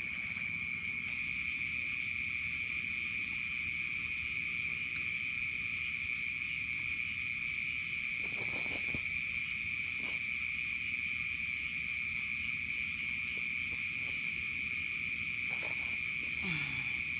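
Insects chirring steadily at one high pitch, a continuous night chorus, with a few faint clicks.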